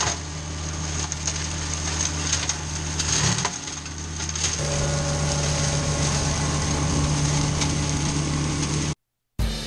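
Compact diesel tractor engine running steadily under load, with scattered crackling and snapping of wood, typical of working through brush; its pitch shifts a few seconds in, and the sound stops abruptly near the end.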